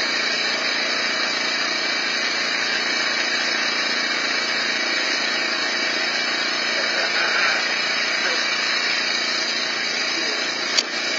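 Honda HS928 two-stage snowblower engine running steadily under load. A single sharp click comes near the end.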